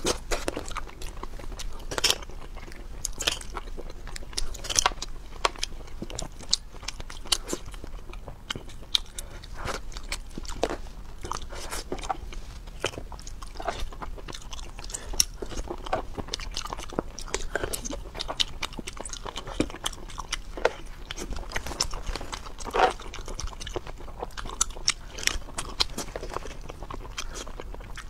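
Close-miked eating: a person biting and chewing seafood, with frequent irregular crunches and clicks.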